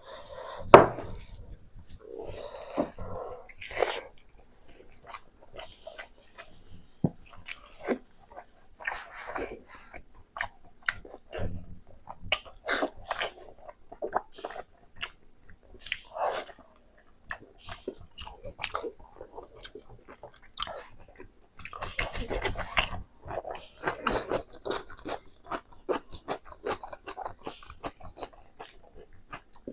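A person chewing and biting mouthfuls of Naga-style pork, with irregular wet smacks and crunches.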